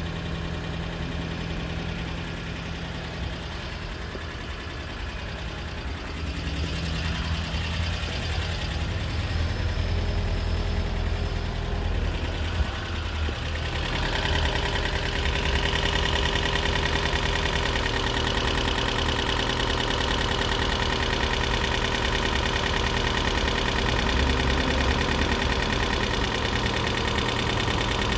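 2012 Toyota Prius v's 1.8-litre four-cylinder petrol engine running after a head gasket rebuild, with an abnormal noise the owner puts down to the lifters still adjusting and expects to clear up. The engine grows louder about halfway through.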